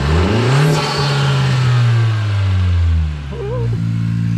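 2017 Honda Civic Si's turbocharged 1.5-litre four-cylinder, breathing through a freshly fitted MAPerformance straight-pipe race catback and front pipe, revved quickly up from idle. It holds the revs for about three seconds, then drops back to idle.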